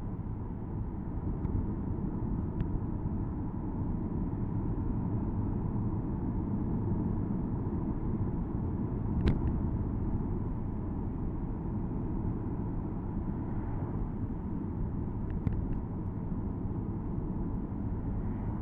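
Porsche Boxster S (987.2) with its flat-six engine, driving along with the top down: a steady low rumble of engine and road noise. There is a sharp click about nine seconds in and two fainter ones near the end.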